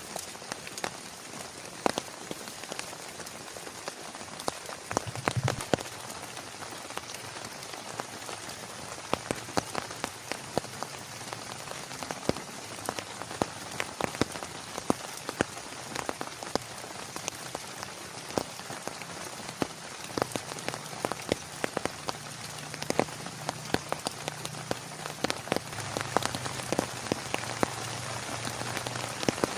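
Heavy rain falling steadily, with many sharp individual drops striking close by amid the continuous hiss.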